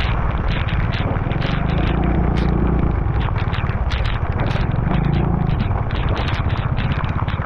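A vehicle travelling in the rain: a steady low rumble of engine and wind, with dense crackling ticks that fit raindrops striking the camera.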